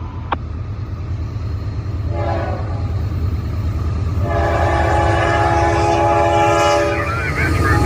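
Locomotive air horn sounding a short blast and then a longer blast over the steady low rumble of an approaching train.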